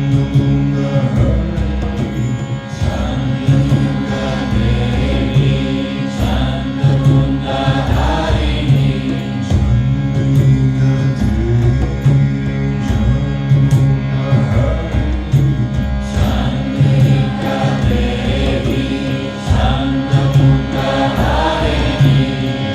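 Kirtan: voices chanting a devotional mantra over a steady drone, with light percussion keeping a beat.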